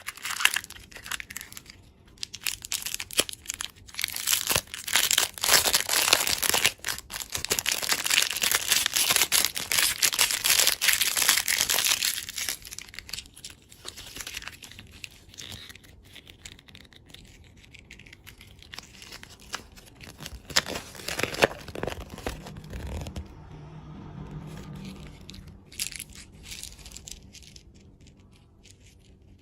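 Candy packaging being torn open and crinkled by hand. A long stretch of dense, loud crackling is followed by quieter, scattered rustles and clicks for the rest of the time.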